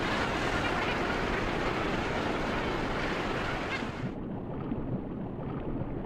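Sea water rushing, a steady hiss of waves and surf. About four seconds in it drops to a quieter, duller, muffled rush as the higher sounds cut out.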